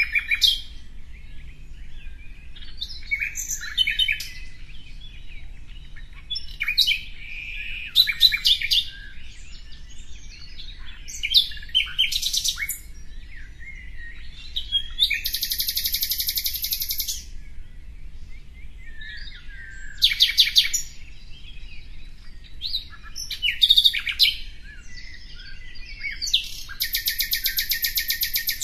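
Songbirds chirping and singing in a series of short, rapid chirp runs, with two longer, dense trills of about two seconds each, one midway and one near the end.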